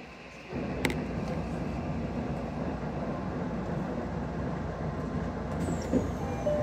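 Odakyu 1000-series electric train, refitted with SiC-VVVF inverters, heard from inside the car as it slows to a stop at a platform. Its steady low rumble and hum steps up in level about half a second in, with a sharp click just after, and a thin high tone slides down near the end.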